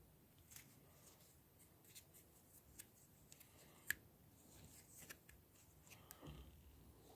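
Faint handling noise: scattered light clicks and rustles, with one sharper click about four seconds in.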